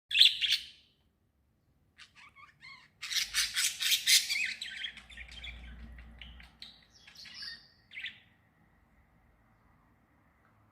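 Small songbirds chirping: one sharp call at the start, then after about two seconds a rapid run of chirps, loudest around three to four seconds in, thinning to scattered calls with a last chirp near eight seconds. A faint steady high tone follows.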